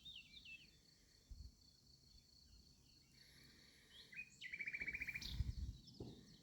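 Wild birdsong: a few short falling chirps at the start, then a quick trill of about ten even notes around four and a half seconds in. A low rumble around five and a half seconds in is the loudest moment.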